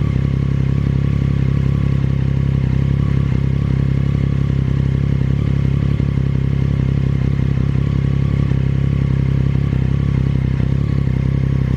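Triumph Daytona 675R's 675 cc three-cylinder engine idling steadily through an aftermarket exhaust, held at an even pitch with no revving.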